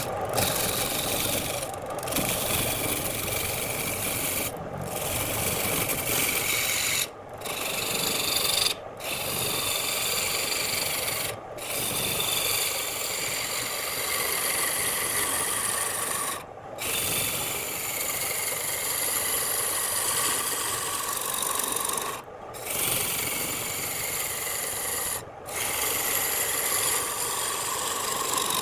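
A turning tool scraping the spinning wood on a wood lathe: a steady rasping, broken by short dips every few seconds.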